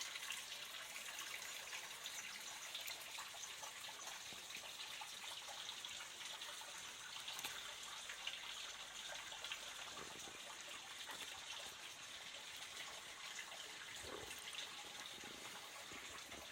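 Water trickling steadily in a small artificial stream.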